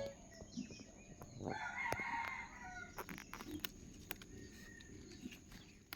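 A rooster crowing once, faintly, about a second and a half in, with a few faint clicks around it.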